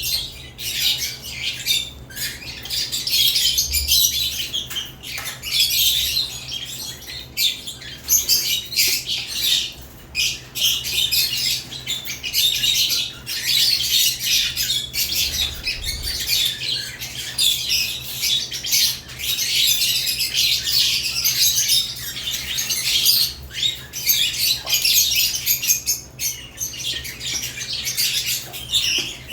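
Caged lovebirds chattering and squawking without pause, a dense mass of high-pitched chirps broken only by brief gaps.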